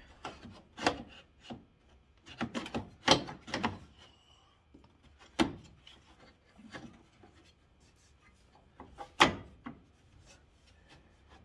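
Headlight assembly being shoved and worked into its opening on a 1991 Ford Ranger, giving irregular knocks and scraping rubs, with two sharper knocks about three and nine seconds in.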